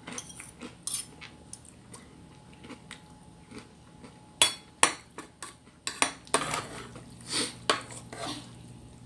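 Spoon and fork clinking and scraping against dishware during a meal, in irregular sharp taps, loudest about halfway through and in a cluster near the end.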